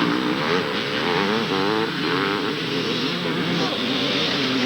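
Several two-stroke motocross bikes racing, their engines revving and dropping as the riders change gear and throttle, so the pitches rise and fall over one another.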